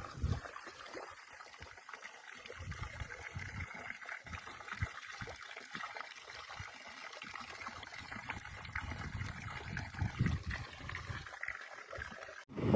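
Stream water trickling and gurgling in an irregular babble. Near the end it cuts abruptly to a louder, steady noise.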